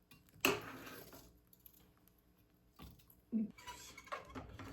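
Firewood being poked and shifted inside a wood-burning stove to get the fire to catch, with clattering knocks and scraping. There is a sharp clatter about half a second in, then two knocks near three and a half seconds.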